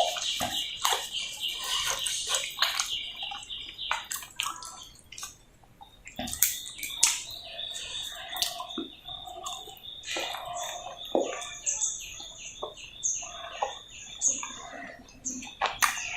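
Close-miked chewing and wet mouth smacks from eating roti with potato sabzi, with many short sharp clicks. A high, fast-pulsing trill runs in the background, drops out for a couple of seconds, then returns, and short high chirps come near the end.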